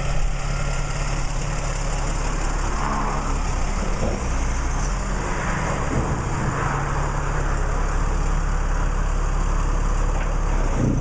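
Tow truck's engine running steadily with a low, even hum.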